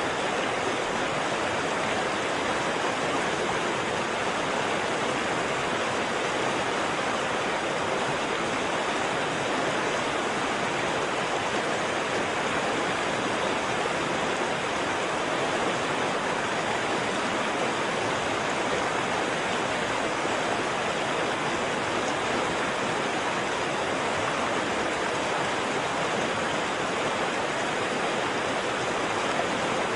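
Waterfall: water falling and rushing in a steady, unbroken roar of noise that does not change.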